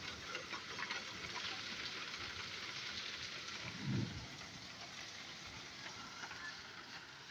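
Heavy rain falling steadily, an even hiss of rain on surfaces, with one brief low thump about four seconds in.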